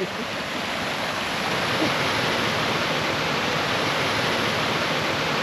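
Rushing water of a mountain stream, a steady, even rush.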